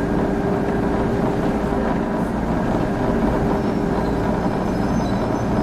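Electric train running, heard from inside the passenger car: a steady rumble of wheels on rail with a steady hum, and faint high-pitched squeals near the end.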